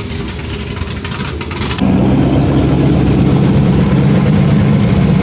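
A drag-racing vehicle's engine: a rough low rumble, then about two seconds in a louder steady engine note comes in and holds without rising or falling.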